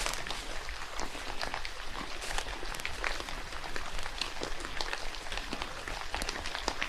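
Rain falling, many irregular drops pattering close by in quick, uneven succession.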